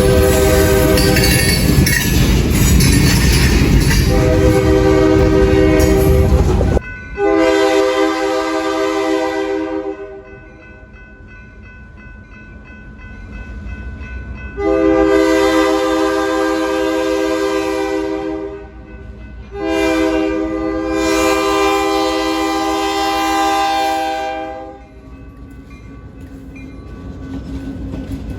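Train horn sounding a series of long blasts. For the first seven seconds it sounds over loud, close train noise, which cuts off abruptly; after that come three long blasts over a much quieter background, the last two only a short gap apart.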